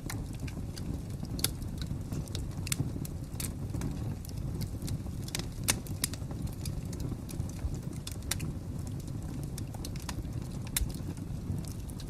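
Fire crackling: irregular sharp pops and snaps over a steady low rumble, with one louder pop about halfway through.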